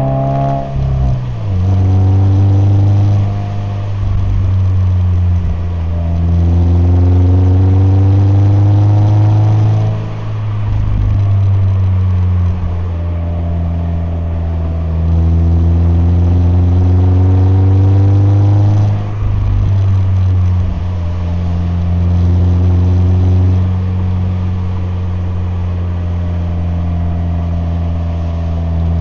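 Subaru BRZ (ZD8) 2.4-litre flat-four engine and exhaust accelerating through the gears in several long rising pulls, the pitch dropping at each upshift, then settling to a steady cruise near the end.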